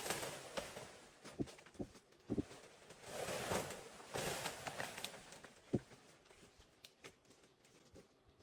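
Irregular soft knocks with stretches of rustling in between, busiest in the first half and thinning out near the end.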